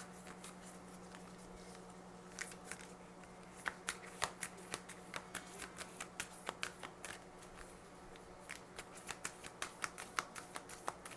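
A deck of oracle cards being shuffled by hand: quick, irregular flicks and clicks of the cards, sparse for the first couple of seconds and then coming thick and fast.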